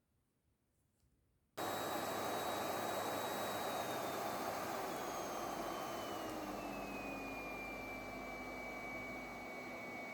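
Vacuum cleaner switching on about a second and a half in and running steadily, a whooshing hiss with a high motor whine that slides down in pitch and then holds. Its sound is soft and pleasant.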